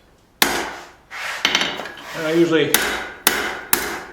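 Hand hammer striking hot steel on an anvil in a series of separate, ringing blows about half a second to a second apart, setting an offset in a tong rein.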